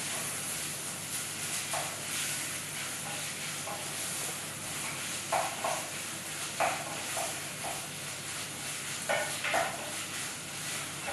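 Spinach and minced meat sizzling in a pot on a gas hob while a wooden spoon stirs them. A few short knocks and scrapes of the spoon against the pot come over the steady sizzle, mostly in the second half.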